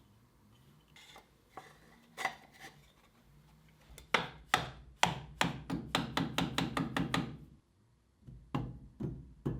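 Light hammer strikes on a steel workpiece: a few scattered taps, then a quick run of about four strikes a second lasting a few seconds, a short pause, and a few more taps near the end.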